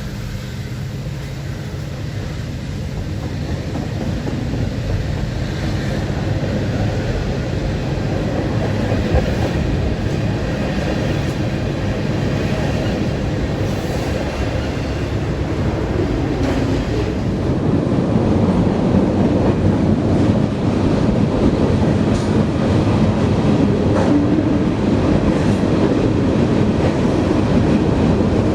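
CN freight train rolling past, a steady rumble of wheels on rail with a few faint clicks, getting louder about two-thirds of the way through.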